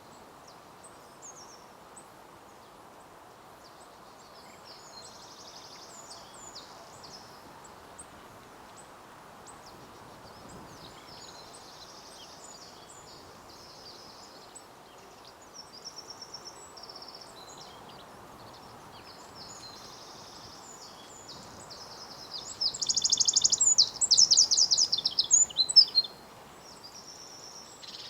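Songbirds singing in the background over a steady low hum of outdoor noise. About three quarters of the way through, one bird close by sings a loud, rapid run of high notes lasting about three seconds.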